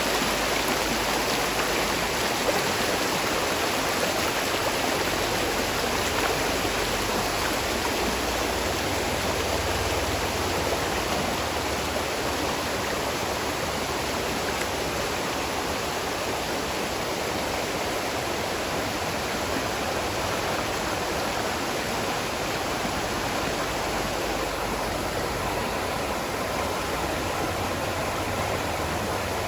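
Spring water running in a stream, a steady rushing splash.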